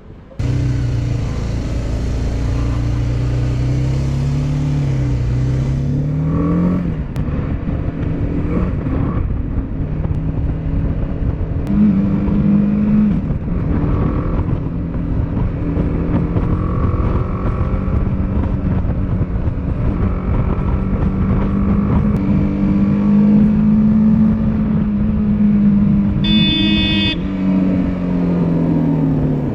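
Motorcycle engine heard from on board while riding. It revs up over the first few seconds under a rush of wind, then holds a steady cruising pitch, and falls away near the end as the bike slows. A brief high-pitched tone, a second long, sounds just before the revs drop.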